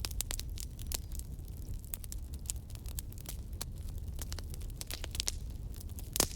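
Wood fire crackling, with many small irregular pops over a low steady rumble; one louder pop near the end.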